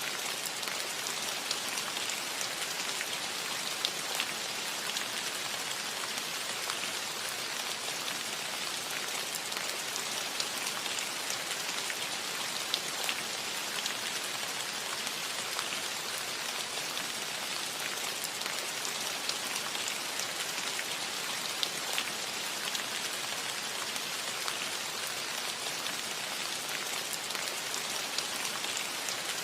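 Steady light rain on a metal roof, an even hiss with many small scattered drop ticks.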